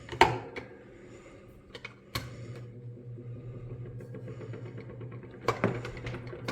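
Clicks from a table fan's controls, then about two seconds in the fan's motor starts and runs with a steady hum, its spindle bearings freshly oiled after it had been failing to start. A couple more clicks come near the end.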